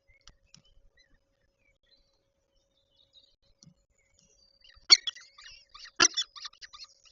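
Peregrine falcons at the nest: two loud knocks about five and six seconds in, then a quick run of short, high chirps.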